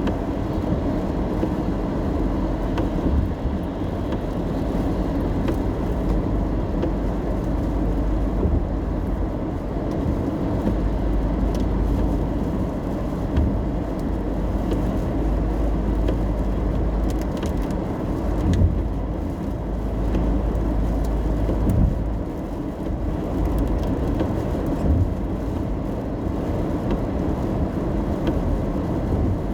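Inside a car while driving in the rain: steady road and tyre noise with a deep engine and road rumble. A couple of brief bumps come in the second half.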